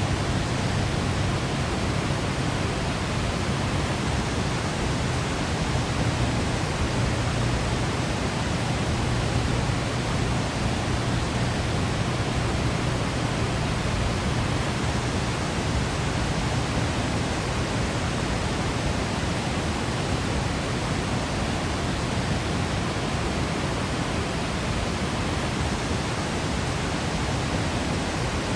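Waterfall crashing, a steady full rush of falling water with a low rumble beneath it.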